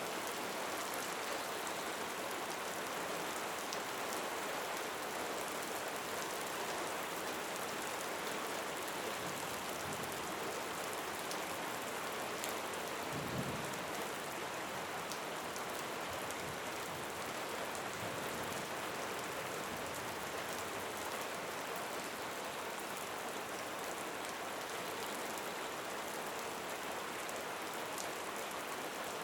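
Steady rain falling, with a brief low rumble about halfway through.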